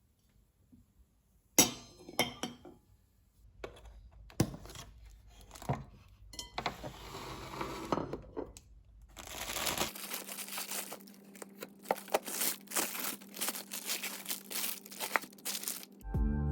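Close handling sounds: crinkling and rustling with scattered light clicks, knocks and clinks. About ten seconds in, the rustling becomes busier over a steady low hum, and music starts right at the end.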